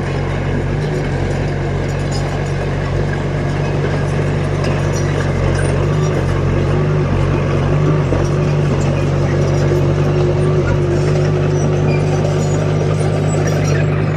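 Diesel engine of a heavy earthmoving machine running steadily. It gets a little louder about halfway through, and a thin whine above the engine grows stronger toward the end.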